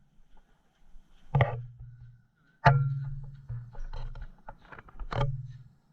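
Three sharp knocks, about a second in, near the middle and near the end. Each is followed by a low hum that fades over about a second, with a few lighter clicks in between.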